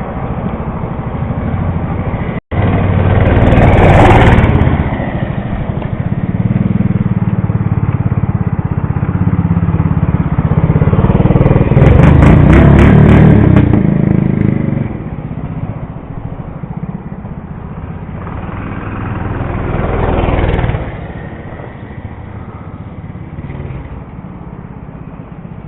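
Mini bike's small engine running as it is ridden, growing louder and fading three times as it revs up and passes close: about four seconds in, from about eleven to fourteen seconds, and about twenty seconds in.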